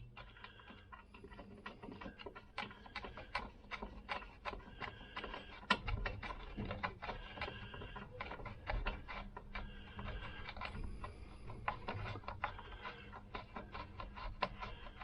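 Irregular metallic clicks, taps and light clatter of hand tools as a spark plug is refitted by hand and with a spark plug spanner, some clicks with a short ring.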